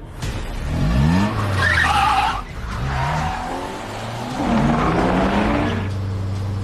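Car engines revving hard in two surges with tyres squealing between them, as in a car chase; steady held tones come in near the end.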